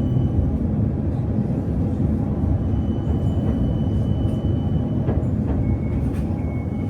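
Running noise of a PKTS 71-931M Vityaz-M tram in motion, heard from inside the car: a steady rumble of wheels on rail with a faint high steady tone above it, and a few light clicks about five seconds in.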